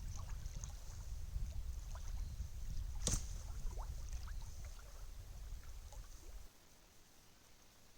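Low wind rumble on the microphone, with a single sharp knock about three seconds in. The rumble cuts off suddenly near the end.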